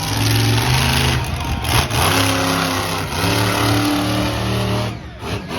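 Monster truck engine revving hard in repeated bursts, its pitch stepping up and down, then dropping away near the end.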